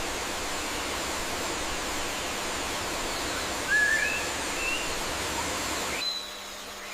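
Steady outdoor hiss of nature ambience with a few short bird chirps a little past halfway. Near the end the hiss drops away suddenly, leaving quieter background.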